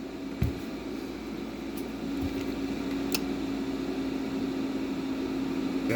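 Steady electrical hum and fan noise from a CB linear amplifier test setup, with a low hum that comes up about two seconds in and then holds steady. A soft knock comes near the start.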